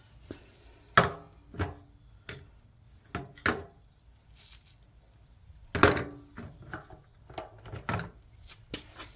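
Hand tools and metal parts knocking and clanking on a workbench during carburetor removal on a small generator engine: about eight separate knocks, the loudest about a second in and near six seconds, some ringing briefly.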